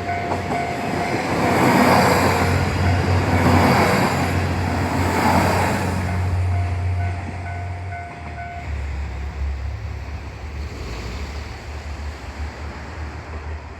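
JR Shikoku 1200-series diesel railcar passing over a level crossing, its wheel and running noise loudest around two to five seconds in, while the crossing's warning bell rings in a steady repeating pattern. The bell stops about eight and a half seconds in, and the railcar's low engine rumble carries on, fading.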